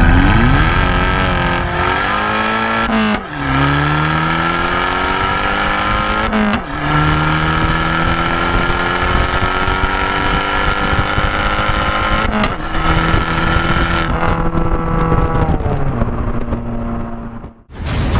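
Tuned Abarth 595's 1.4-litre turbocharged four-cylinder accelerating hard through the gears. The engine note climbs steadily in each gear, with upshifts about three, six and a half and twelve and a half seconds in. Near the end the driver lifts off and the note drops away.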